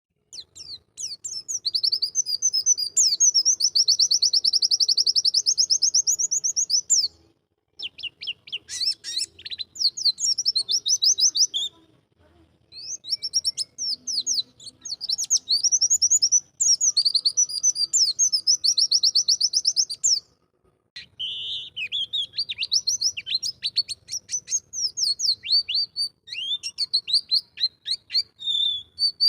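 White-eye (pleci) singing in long runs of rapid, high-pitched twittering, broken by short pauses between phrases.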